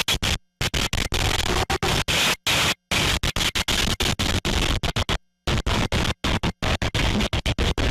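Harsh static-like hiss, chopped into stuttering pieces by abrupt silent gaps several times a second.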